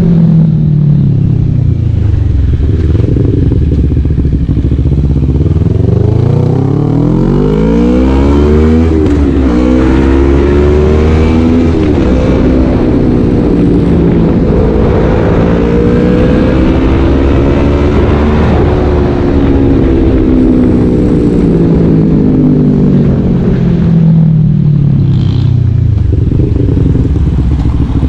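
CFMoto NK400 motorcycle's parallel-twin engine running through an aftermarket Akrapovic muffler while riding. Its pitch climbs under throttle and drops back at gear changes and easing off, with a sharp drop about nine seconds in.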